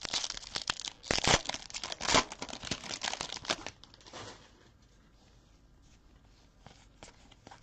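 Trading cards being handled and flipped through by hand: a quick run of rustling and sliding clicks for about four seconds, then only a few faint ticks.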